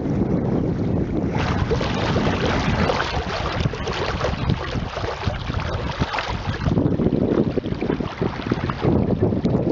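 Wind buffeting the microphone aboard a small sailboat under way, with the rush of water along the hull. The gusts shift from a low rumble to a brighter, crackling hiss and back.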